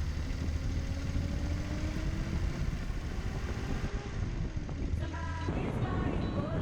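Car engine running under way, with a heavy low rumble and a note that slowly rises in pitch. About five and a half seconds in it cuts abruptly to a different sound with several steady tones.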